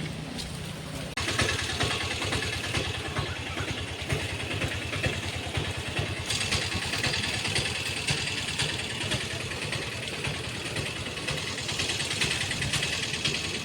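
A motor vehicle engine, like a motorcycle's, running steadily; the sound jumps abruptly louder about a second in.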